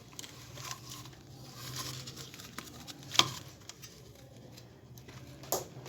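Faint handling noise with two sharp clicks, about three seconds in and near the end, as power-supply test leads are clipped onto a small DC motor's terminals.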